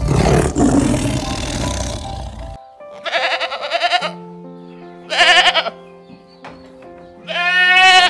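A tiger's roar for the first two and a half seconds, then three goat bleats, the last one quavering, over background music with steady held tones.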